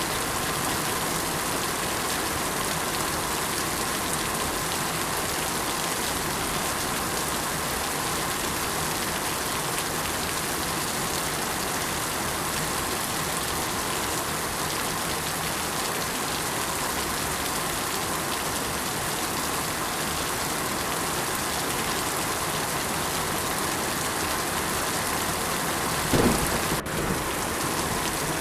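Steady rain falling, an even hiss throughout. Near the end there is a single short, low rumble of thunder.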